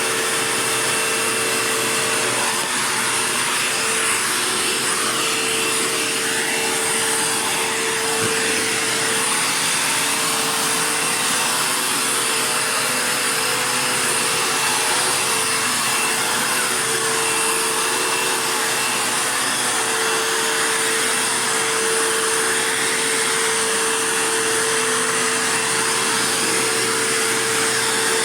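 Dirt Devil Jaguar vacuum cleaner running steadily: a continuous motor roar with a steady hum and a faint high whine above it.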